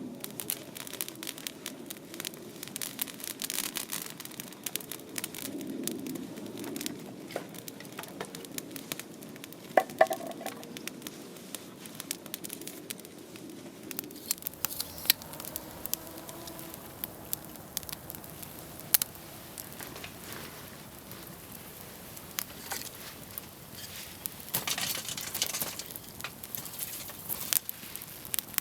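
Wood campfire crackling, with irregular sharp pops and snaps, a few of them louder.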